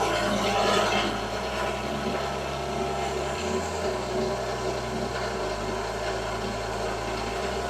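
Stand mixer running steadily, beating cake batter of whipped eggs and sugar as butter and milk are worked in.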